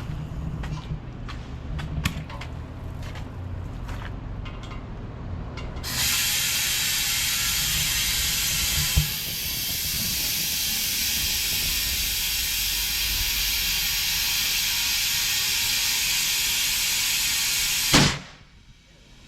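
Low rumble with a few clicks, then about six seconds in a loud, steady hiss of compressed air, as from an air hose filling a truck tire, which runs about twelve seconds and cuts off abruptly.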